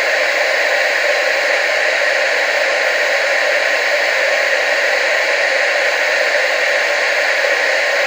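Steady television static hiss, an unchanging rushing noise centred in the mid and upper-mid range with almost no bass.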